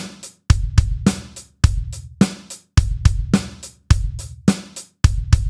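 Drum kit playing a straight rock groove at a moderate tempo: bass drum and snare alternate on the beats, with eighth notes on the hi-hat between them. The hi-hat is played with a down-up motion and the bass drum and snare are pushed slightly ahead of the beat.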